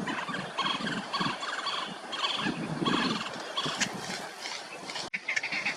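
Waterbirds calling: a run of short, rapidly pulsed calls repeated about twice a second, with a sudden break near the end.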